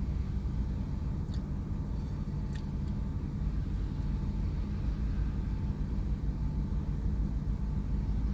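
Diesel locomotive of an approaching log train, a steady low engine rumble.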